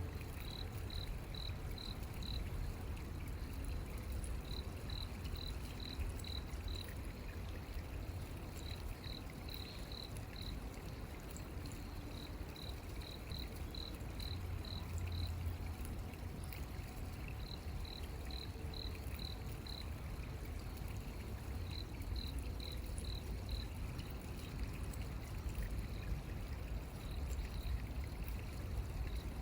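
Running stream water with a steady low rumble, over which a small calling animal gives a high chirp, repeated in quick runs of five to seven, one run every four seconds or so.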